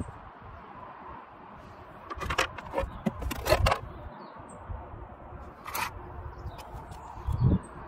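Hand tools clinking and scraping against metal during engine work: several sharp clinks about two to four seconds in, another about six seconds in, and a dull thump near the end.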